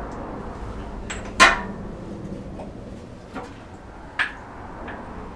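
A few sharp metal clanks and knocks, the loudest about one and a half seconds in and another about four seconds in: used classic Mini suspension parts being handled and set down.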